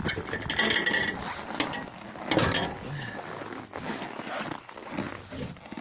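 Irregular metallic clanks and rattles, with a short ringing clank about a second in, as the door of an outdoor wood furnace is worked open for stoking.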